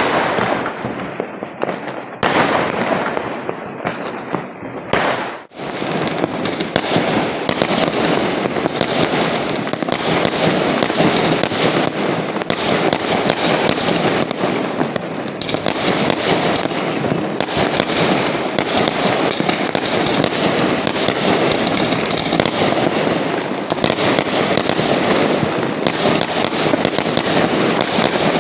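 Diwali firecrackers and fireworks going off non-stop: a dense, continuous crackle of overlapping bangs, with a brief lull about five seconds in.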